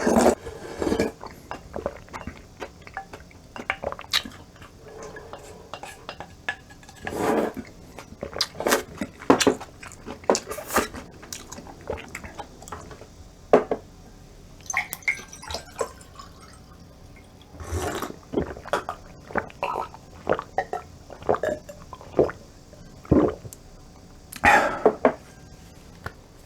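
Close-up eating sounds of cold acorn jelly rice soup: irregular slurps of the chilled broth and chewing, with a utensil now and then knocking the bowl.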